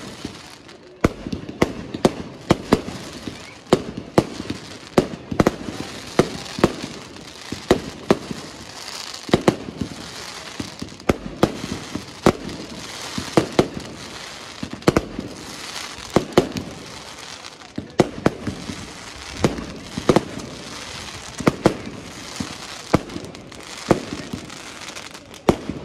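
Fireworks display: aerial shots bursting one after another with sharp bangs, about two a second, over a continuous hiss and crackle of launching and burning stars.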